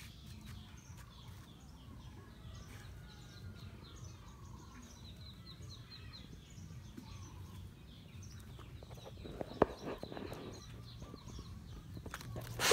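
Birds chirping throughout, many short faint calls over a steady low background. A few louder knocks and rustles about three-quarters of the way through, and a sharp loud knock at the very end.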